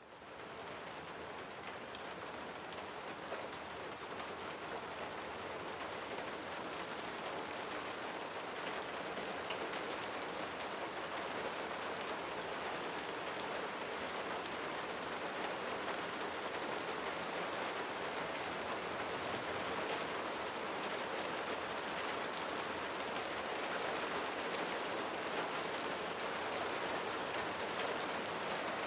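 Steady rain, a dense patter of drops, fading in from silence at the start and growing slowly louder.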